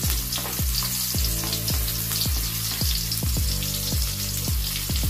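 Chopped garlic, chili and red onion sizzling in hot oil in a frying pan, a steady frying hiss. Background music with a steady beat of about two drum hits a second plays under it.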